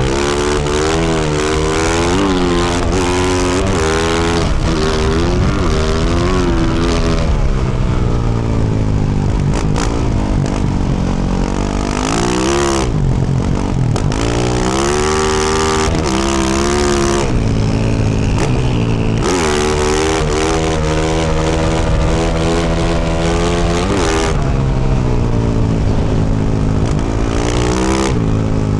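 2024 Yamaha YZ450F's single-cylinder four-stroke engine through a Yoshimura RS-12 exhaust, ridden hard. The revs keep climbing and falling as the rider accelerates, shifts and rolls off the throttle, with one deep drop and climb back about halfway through.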